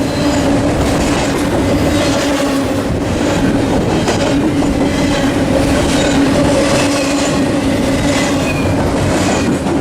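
Double-stack container freight train passing close by. It makes a loud, steady rumble with wheels clicking over the rail joints and a steady hum underneath.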